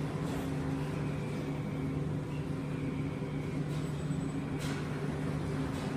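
Steady low hum of coin-laundry machines running, with a brief higher-pitched noise about two-thirds of the way through.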